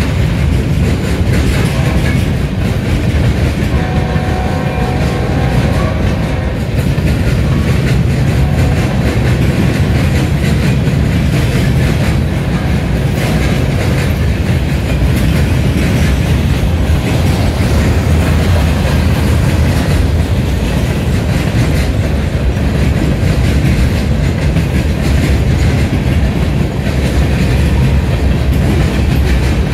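Mixed freight cars of a CSX train (boxcars, tank car, hoppers) rolling past close by: a steady rumble of wheels on rail with clickety-clack over the rail joints.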